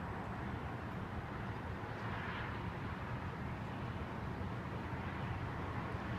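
Steady wind ahead of a thunderstorm, with a low rumble and one gust swelling briefly about two seconds in.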